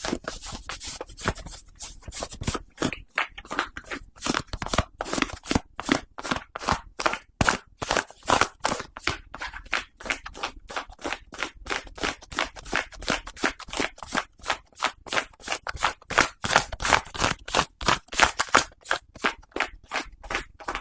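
Close-miked scratching and rubbing on a hat's brim and fabric, in quick, even strokes about three a second.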